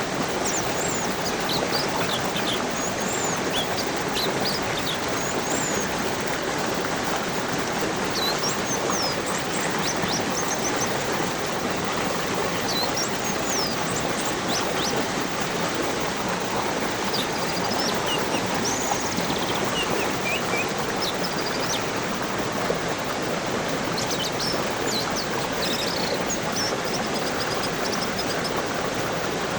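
Steady rush of flowing water, with small birds chirping and whistling over it in short calls scattered throughout.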